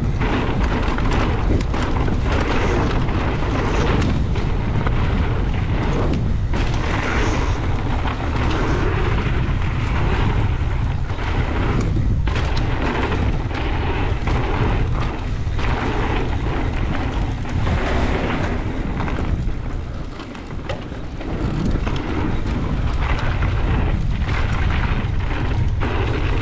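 Heavy wind buffeting the microphone during a fast mountain-bike descent, with the rumble and rattle of the bike over the dirt trail. It eases briefly about twenty seconds in.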